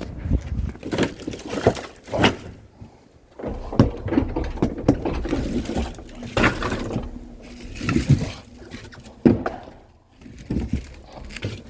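Objects being handled by hand: irregular knocks and thuds, with rustling between them and a short quiet spell about a third of the way in.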